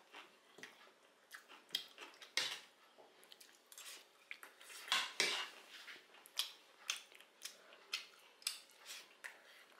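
Close-miked eating: irregular sharp clicks and short crunches of chewing, about one or two a second, loudest around the middle.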